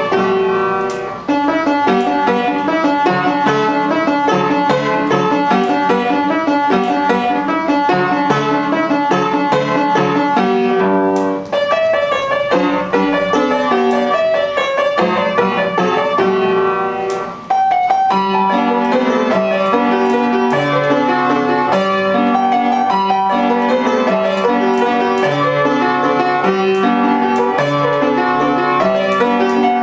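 Piano playing a waltz, a melody over a repeating accompaniment, with brief breaks about a second in, about eleven seconds in and about seventeen seconds in.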